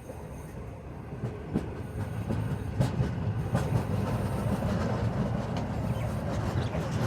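Passenger train running on its track, heard from inside a coach: a steady low rumble of the wheels on the rails with scattered clicks and knocks. It grows louder about a second and a half in.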